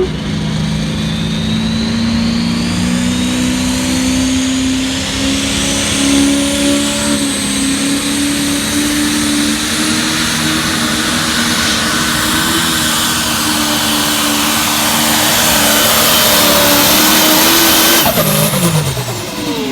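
Massey Ferguson 1150 pulling tractor's Perkins V8 diesel running flat out as it drags the pulling sled, its pitch slowly climbing through the pull. Near the end the revs fall away sharply as the throttle is cut.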